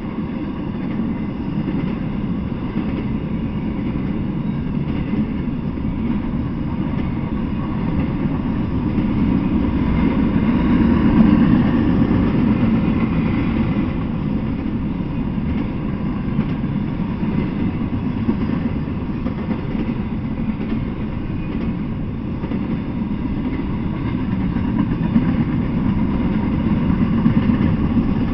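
Double-stack intermodal freight train rolling past, its steel wheels on the rails making a steady rumble that swells a little about eleven seconds in.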